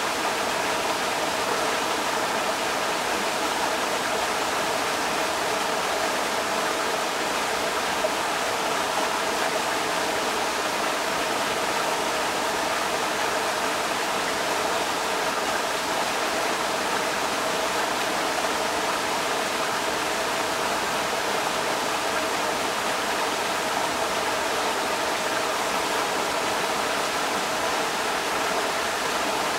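Creek water rushing steadily over rocks, a constant even rush with no breaks.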